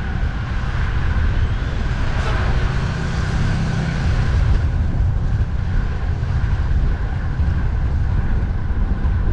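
Steady rumble of road traffic mixed with wind buffeting the microphone, with a brief sharp sound a little over two seconds in.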